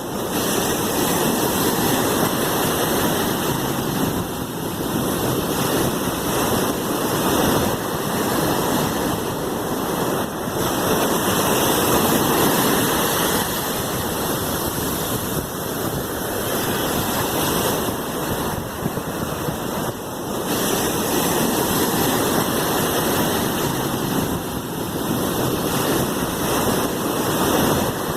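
Sea waves washing in as a continuous surf noise, swelling and easing every five or six seconds.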